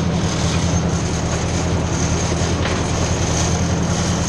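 Ford 600 tractor engine running steadily as the tractor drives along in third gear.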